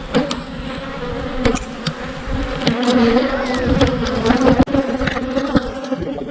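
Honeybees from knocked-over, broken-open hives buzzing in a dense swarm around the microphone, a steady hum, with scattered clicks and knocks.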